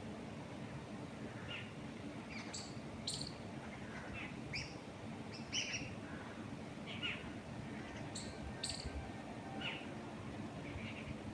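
Wild birds chirping: many short, high chirps scattered irregularly, some in quick pairs, over a steady low background rustle.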